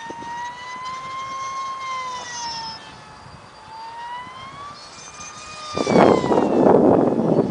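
Electric F5D pylon racer's Mega 16/25/1E brushless motor and Graupner 5.2x5.2 propeller whining high overhead, the pitch slowly rising and falling as the plane flies its laps. About six seconds in, a loud rushing noise cuts in and drowns the whine.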